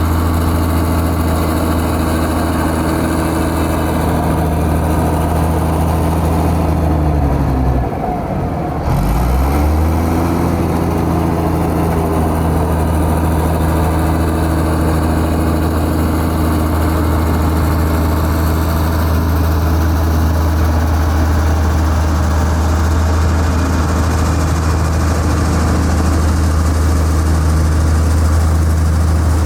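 Heavy diesel engine of earthmoving machinery running steadily. About eight seconds in, its pitch sweeps sharply down and climbs straight back up.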